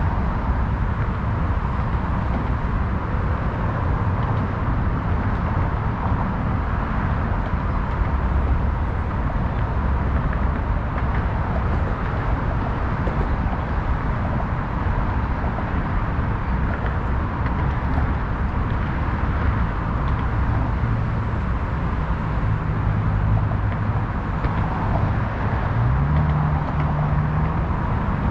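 Steady roar of passing motor traffic, with the low hum of engines and one engine note rising near the end.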